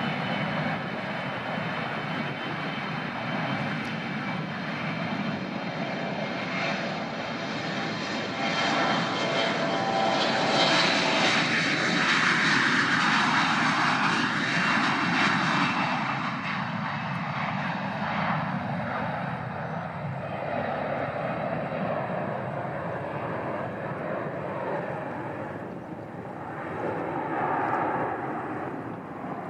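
Airliner engines passing close by, growing to their loudest about ten seconds in, the pitch falling as the aircraft goes past, then fading away.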